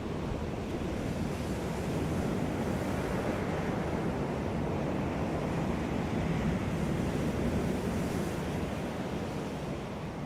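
Ocean surf washing onto a beach: a wave's rush swells over several seconds and eases off near the end.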